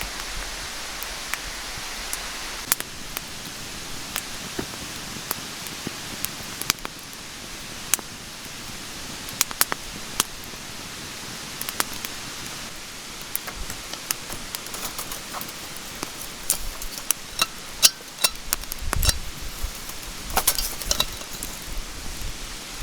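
Mountain stream rushing steadily, with scattered sharp clicks and light clinks over it that come thicker in the second half, and a dull thump near the end.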